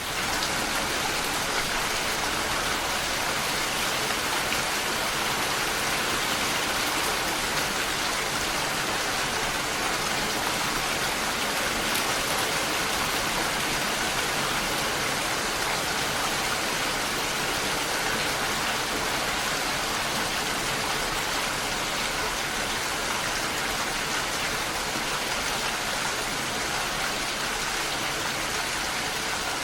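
Steady rainfall, an even hiss of many drops falling without a break.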